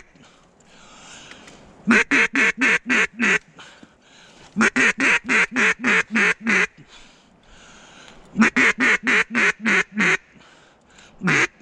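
Duck call blown in mallard hen quacks: three quick runs of loud, short quacks at about six a second, with a single quack near the end.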